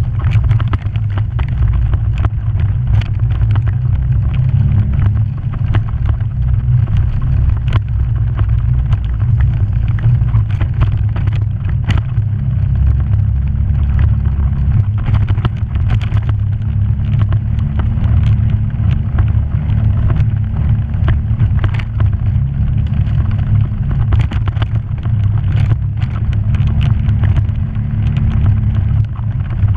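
A vehicle's engine running steadily at low pitch as it is driven along an off-road trail, with many short knocks and rattles scattered throughout.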